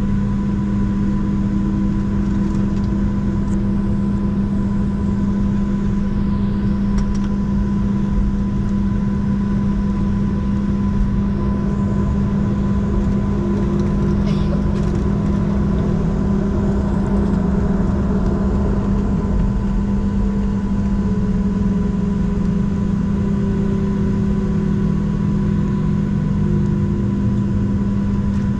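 Steady cabin drone of a Boeing 737-700 on the ground with its CFM56-7B turbofans at idle: a constant low hum with a thin steady tone above it, and faint tones that drift slowly in pitch as the engines hold idle.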